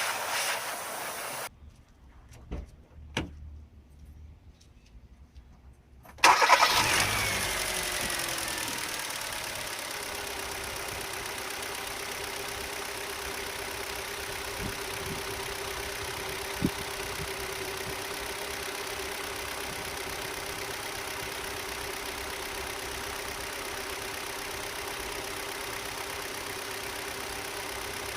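A steady hiss cuts off, followed by a few clicks. About six seconds in, a Hyundai i30 GD's engine cranks and fires with a loud start-up flare. The revs then fall away and settle into a steady idle.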